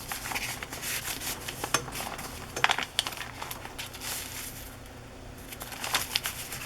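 Paper pages of a thick junk journal being turned and handled, rustling and crinkling with scattered small taps, loudest about two and a half seconds in and again near the end.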